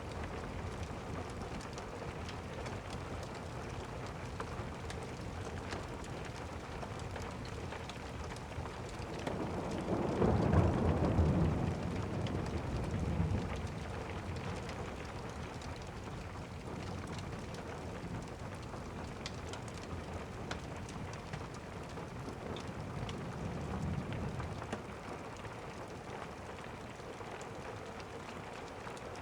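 Steady rain, with a rolling rumble of thunder building about ten seconds in and a fainter rumble near the end.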